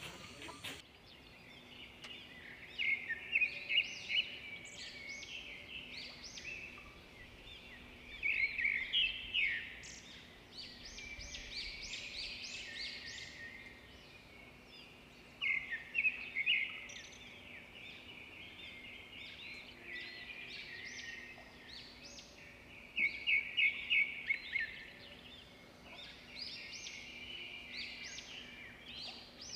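Birds chirping in several bursts of rapid, high calls, with quieter stretches between them, over a faint steady low hum.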